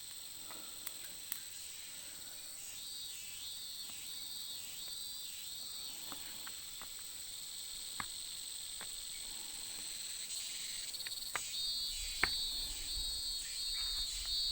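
Insects chirring steadily in a high, continuous drone, joined by a rhythmic pulsing chirp about twice a second. A few sharp clicks and a low rumble come in near the end.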